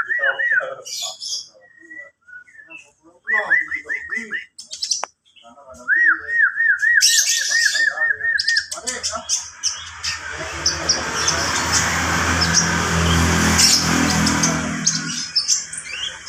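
Kolibri ninja (purple-throated sunbird) singing in short bouts of quick, arched whistled notes, about four a second in the longest run, with high thin chirps. About halfway through, a motor vehicle's engine swells up under the song and fades near the end.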